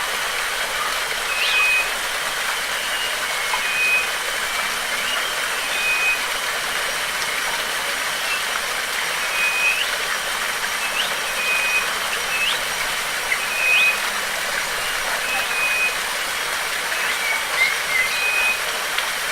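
Waterfall water rushing as a steady hiss, with a bird repeating short whistled notes every second or two, each a quick rising stroke followed by a brief flat note. A thin steady high tone runs underneath.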